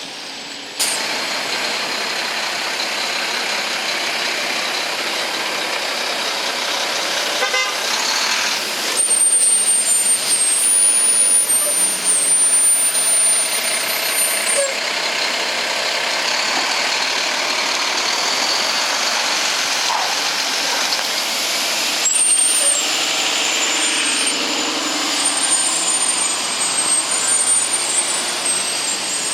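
City street traffic heard from a moving bicycle: a steady hiss of tyres and passing vehicles, louder for a few seconds near the middle, with a thin high whine that comes and goes twice.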